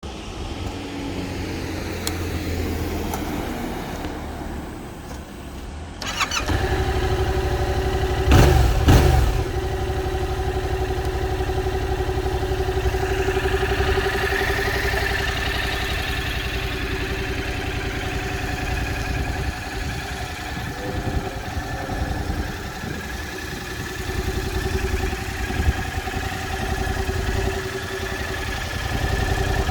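Yamaha MT-07's 689 cc parallel-twin engine starting about six seconds in, blipped twice to a quick rev and back around eight to nine seconds, then settling into a steady idle through its exhaust.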